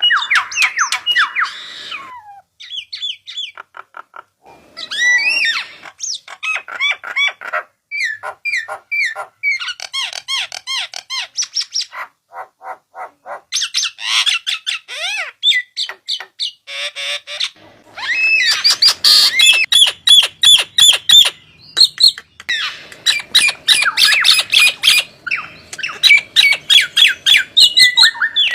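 Starling (jalak) calls: harsh squawks, rapid chattering and sweeping whistles in dense runs broken by short pauses. It is a lure (pancingan) recording, played to provoke other starlings into calling.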